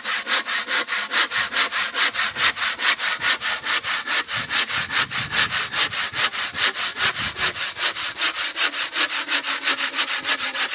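A wood handsaw cutting through a foam-concrete (aerated) block with quick, even back-and-forth strokes, about five a second.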